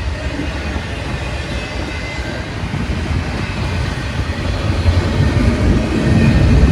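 A train rolling by: a steady rumble of wheels on rail that grows louder toward the end.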